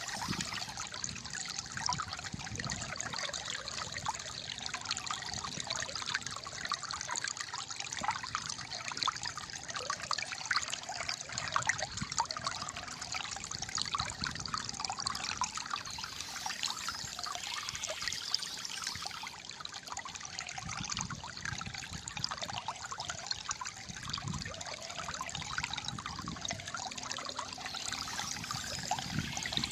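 Small stream trickling and gurgling steadily over stones.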